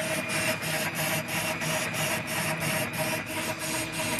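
Metal lathe running with the cutting tool working across the end of a steel hydraulic-cylinder part. It makes a steady machine hum under a scraping cut that pulses about four or five times a second.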